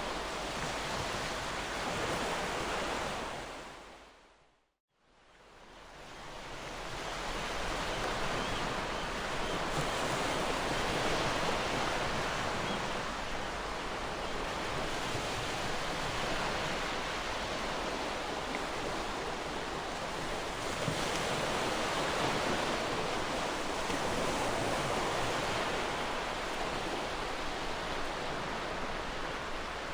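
Ocean waves washing onto a shore in a steady wash of surf, swelling and easing slowly. The sound fades out to silence about five seconds in, then fades back up over a few seconds.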